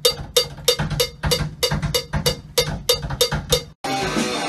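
Metronome click track ticking at a steady tempo, about three clicks a second. Near the end the clicks cut off suddenly and electric guitar music comes in.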